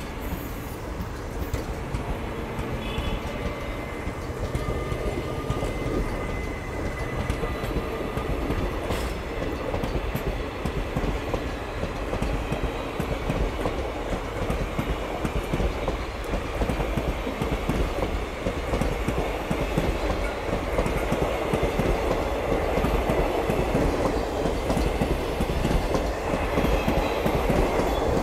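Passenger train coaches rolling past, their wheels clattering on the rails, growing steadily louder.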